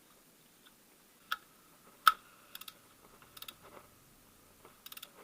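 Scattered sharp metallic clicks and short bursts of ratcheting from a hand wrench working the bolt of the timing-belt tensioner roller. The loudest is a single ringing clink a little after two seconds, and there are two quick runs of clicks near the middle and near the end.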